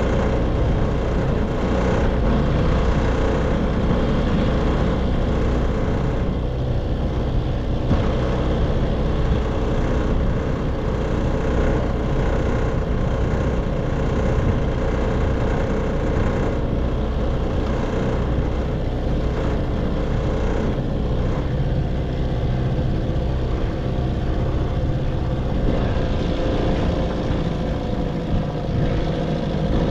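1958 Evinrude 3 hp two-stroke outboard motor running steadily, its pitch shifting slightly a few seconds before the end.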